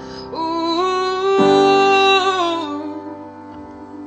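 Live piano ballad ending: a wordless sung note, sliding up at the start and falling away, held over sustained piano chords, with a new chord struck about a second and a half in.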